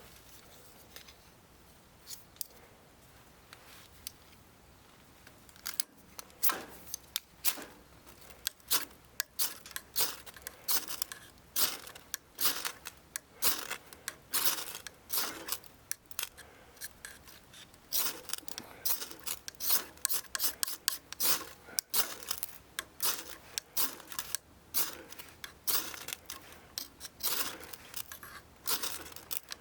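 Quick, irregular rasping scrapes, several a second, starting about six seconds in.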